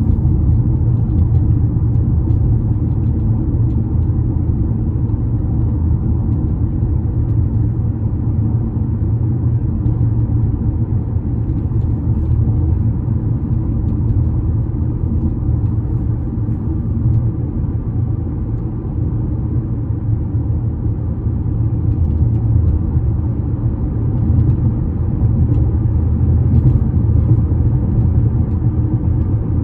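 Steady, loud low rumble from a bridge, with no clear pitch, easing slightly around the middle.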